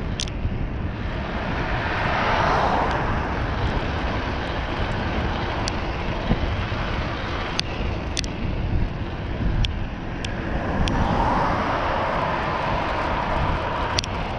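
Wind rushing over the microphone and road noise from a bicycle riding along, swelling twice, with a few sharp clicks and rattles from the bike.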